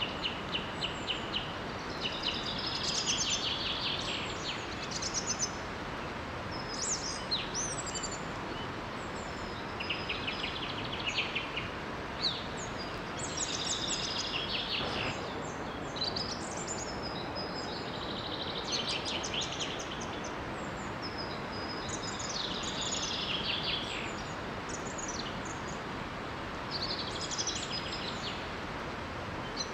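Songbirds singing in short, repeated trilled phrases over the steady rush of a small forest waterfall.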